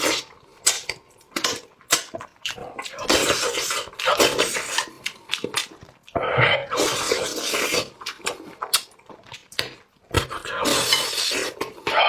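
Close-up eating sounds: a person slurping and chewing, with sharp wet clicks and three longer noisy bursts of slurping and chomping.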